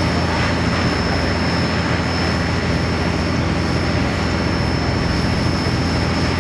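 Super stock diesel pulling truck's engine running steadily: a low drone with a high, steady whine over it.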